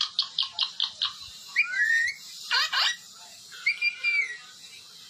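Pet parrot chirping and whistling: a quick run of about six short chirps, then three gliding whistles a second or so apart.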